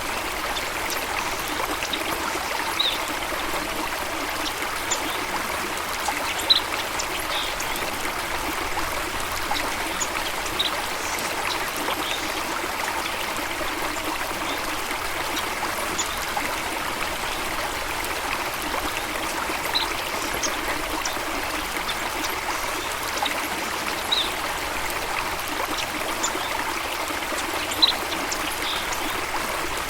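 A stream of water running and trickling steadily, with a few brief high plinks breaking through now and then.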